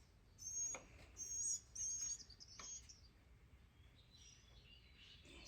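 A small bird chirping: short high calls about four times in the first three seconds, then fainter twittering near the end, with a couple of faint clicks.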